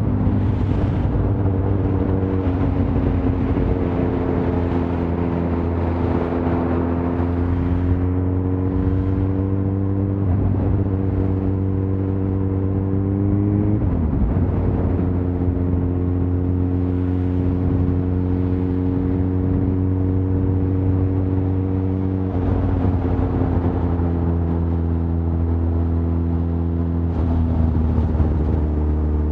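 Suzuki GSX-R1000 inline-four engine running under way, its note mostly steady but dipping and shifting pitch about four times, over a continuous rush of noise.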